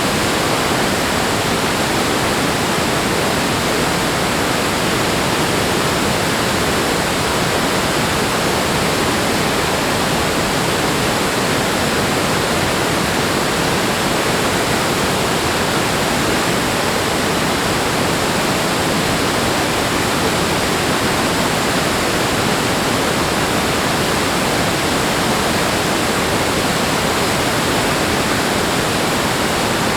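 Steady, loud rush of flowing water, an even roar with no swells or breaks.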